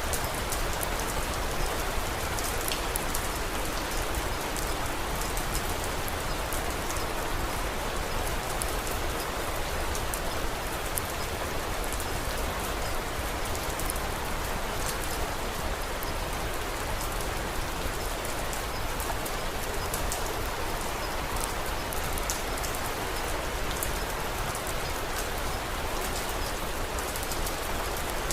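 Steady rain falling, an even hiss, with scattered small sharp crackles of a wood fire over it.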